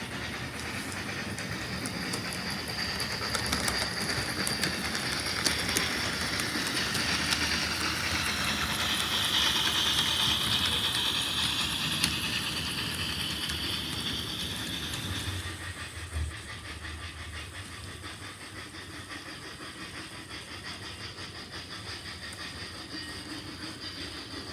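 HO scale model train rolling along the track with a steady rumble and fine clicking from the wheels. A high tone swells in the middle and fades away, and the running sound drops off after about fifteen seconds.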